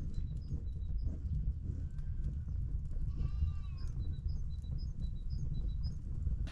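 A single wavering bleat from a flock of sheep and goats, lasting about a second, a little past the middle. Small birds chirp repeatedly throughout, over a steady low rumble.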